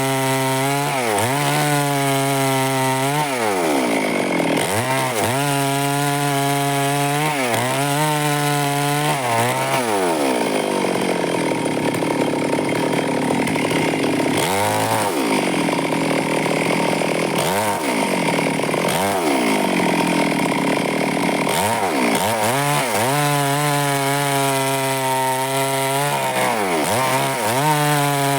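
Stihl two-stroke chainsaw cutting wood. The engine pitch dips sharply and climbs back again and again as the chain bites into the wood and comes free, with a longer stretch of steady cutting at lower pitch through the middle.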